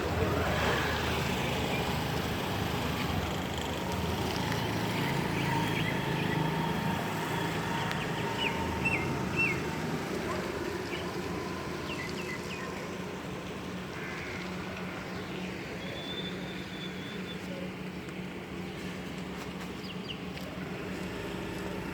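Outdoor ambience with a motor vehicle engine running steadily, and a few short high chirps about eight to ten seconds in.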